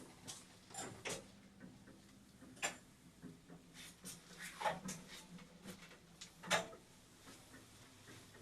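1981 MLZ passenger lift at work: a low steady hum under scattered, irregular clicks and knocks.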